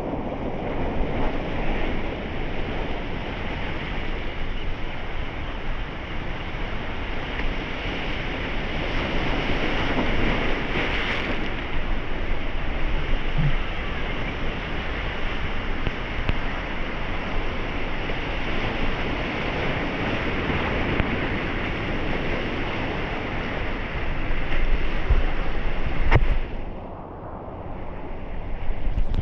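Steady rushing ocean water noise that swells and eases gently, with a single sharp click near the end followed by a brief dip in level.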